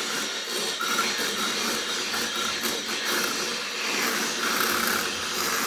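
Harsh noise from a flattened tin can with a contact microphone taped to it, scraped along a table and run through a filter and distortion pedal chain: a loud, continuous wall of gritty distorted noise.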